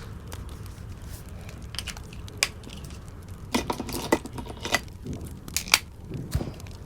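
Wood fire crackling in a fireplace: irregular sharp pops and snaps over a low steady rumble, with a cluster of louder snaps in the middle.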